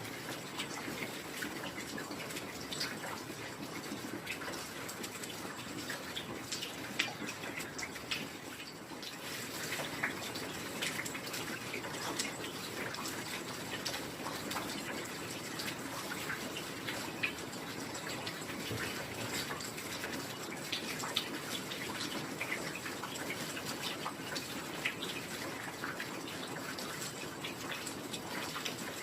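Heavy rain falling steadily, an even hiss with many irregular drips and sharp ticks of drops striking surfaces.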